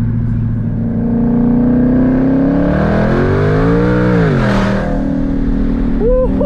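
Twin-turbo Mustang with open turbo dump pipes accelerating hard: the engine note climbs steadily in pitch for about three seconds, then drops sharply with a rush of hiss as the throttle comes off.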